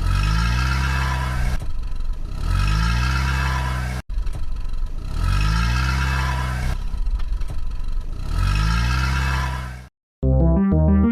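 Car engine sound effect revving up over and over, rising in pitch about every two seconds. It cuts out near the end, and a short run of stepped electronic tones follows.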